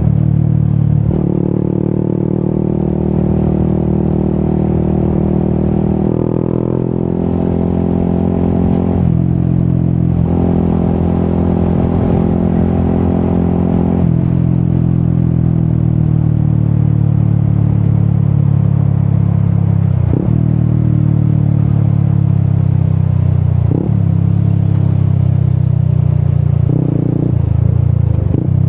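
Yamaha XSR 155's single-cylinder engine running through an aftermarket Akrapovic exhaust while riding. The note climbs in pitch, broken by several short gaps in the first half, then settles into a steadier, lower-pitched run with a few brief dips.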